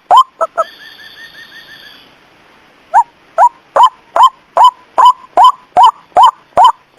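White-breasted waterhen calls played as a lure: short, loud, hoarse notes repeated about two and a half times a second. They break off for about two seconds, during which a fainter rapid trill is heard, and resume about three seconds in.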